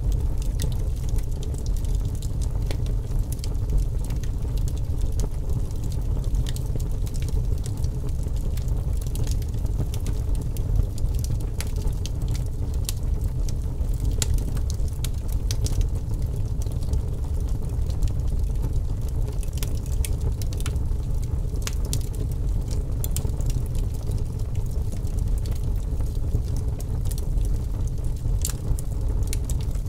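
Wood fire burning in a fireplace: a steady low rumble of the flames with frequent sharp crackles and pops of burning logs.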